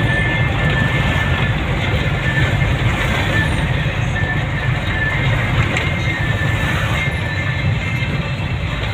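Steady road noise of a vehicle driving, a constant low rumble with tyre and wind hiss over it, with music playing along underneath.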